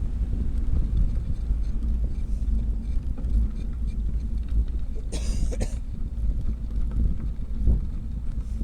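Wind buffeting the microphone of a moving bicycle as a steady low rumble, with one short hissing burst of noise about five seconds in.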